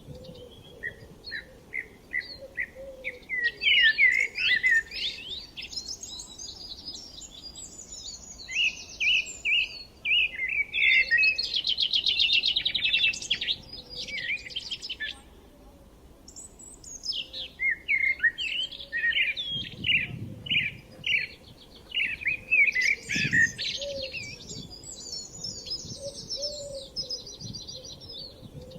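Several songbirds singing and chirping at once, overlapping phrases of quick chirps, whistles and fast trills that come in bursts with brief lulls.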